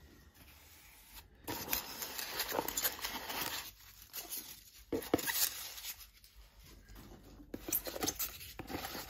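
Packaging being handled while a mailed box is unpacked: plastic and paper crinkling and rustling among packing peanuts, with small clicks. It starts about a second and a half in and comes in stretches with short pauses.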